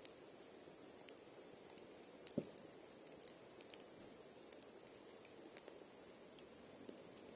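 Wood campfire burning quietly: a steady low rush with scattered small crackles and one louder pop a little over two seconds in.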